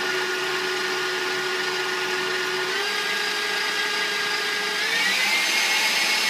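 Electric mixer running steadily as it beats wet cookie dough of butter, sweetener, egg whites and vanilla. Its motor whine steps up in pitch twice, about three seconds in and again about five seconds in, as the speed is turned up.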